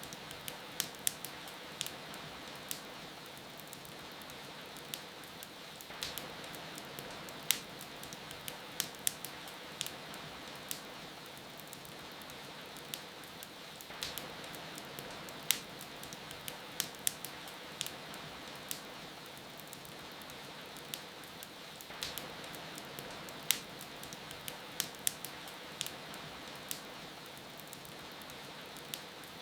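Wood fire crackling, with irregular sharp pops, some in quick clusters, over a steady hiss of rain.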